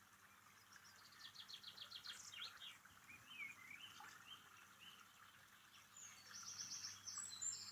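Faint woodland birdsong: a quick trill of short chirps about a second in, then a few sliding notes, and higher repeated notes near the end.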